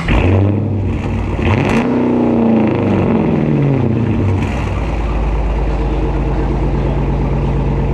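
Dodge Challenger R/T's 5.7-litre HEMI V8 with its mid muffler and resonators deleted, revved with a sudden loud blip at the start, its pitch rising then falling back, and settling into a steady deep idle after about five seconds.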